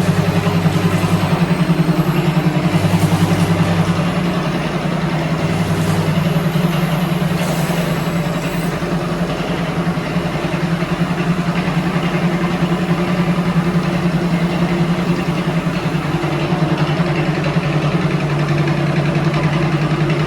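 Kubota tractor's diesel engine running steadily at a constant speed, loud and even.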